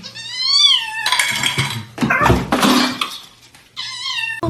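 A cat meowing twice, one drawn-out meow that rises and falls in pitch, then a shorter one near the end. Between them comes a loud, harsh noisy stretch of about two seconds.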